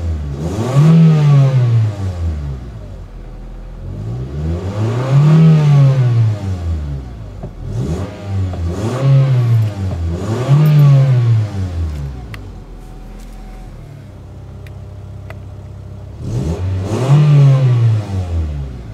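Honda 1.7-litre D17 four-cylinder engine of a 2001 Acura EL being revved in park, heard from inside the cabin: five rev blips that climb and fall back, two of them in quick succession, with a steady idle for a few seconds before the last one.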